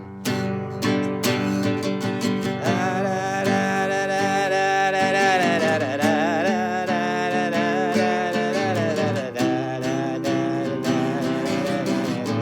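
Acoustic guitar strummed in an instrumental break of a song, with a sustained, wavering melody line over the strumming from about three to nine seconds in.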